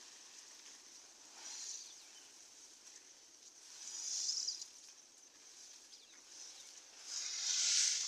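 Grass fodder rustling in three short bursts, about every three seconds, over a faint steady high hiss.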